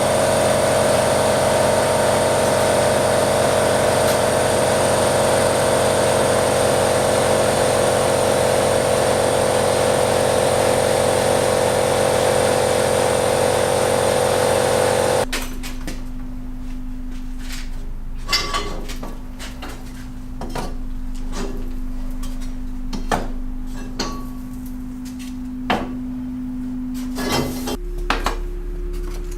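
A machine running with a loud, steady rushing noise and a held tone, which cuts off suddenly about halfway through. A quieter steady hum follows, with scattered sharp clinks and knocks of small metal parts being handled.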